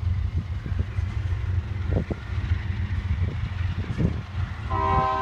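Freight train rolling past with a steady low rumble. About four and a half seconds in, a diesel locomotive's air horn starts sounding one steady chord of several notes.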